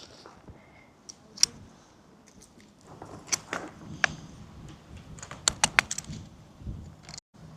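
A scatter of sharp light clicks and clinks, like small hard objects being handled, with a quick run of several clicks about five and a half seconds in.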